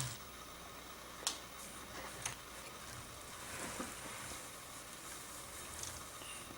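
Two faint clicks of plastic Lego pieces as a toy truck is handled, a second apart, over a low steady hiss.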